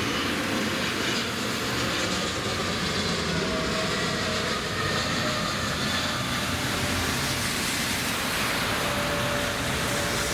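Jet airliner engines at go-around thrust as the aircraft aborts its landing: a steady, even noise with faint whining tones.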